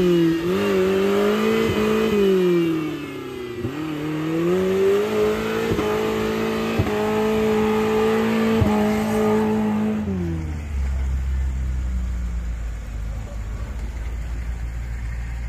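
Off-road 4x4's engine revving under load, its pitch rising and falling repeatedly, with a few sharp knocks. About ten seconds in the engine note drops away, leaving a low steady rumble.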